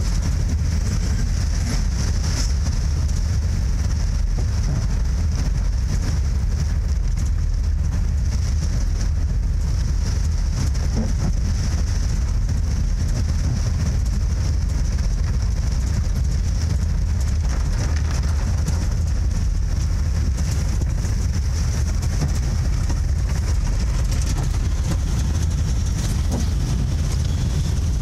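Vehicle running on the move: a steady low rumble with a constant high hiss above it.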